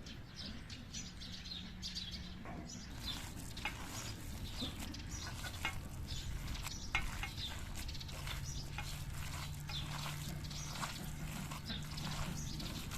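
Small birds chirping repeatedly, with a low steady hum that comes in about a second in, fades, and returns for the last few seconds.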